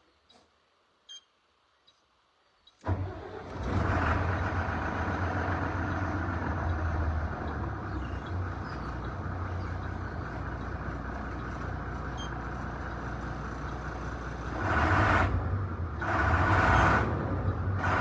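A vehicle engine starts abruptly about three seconds in and runs steadily with a deep hum. It surges louder twice near the end.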